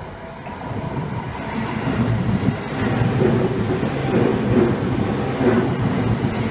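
Seibu 10000 series Red Arrow limited express approaching and passing a level crossing. Its rumble swells over the first two to three seconds, then runs on as the cars go by, with regular heavier pulses of wheel noise. A level-crossing bell is faintly heard ringing at the start.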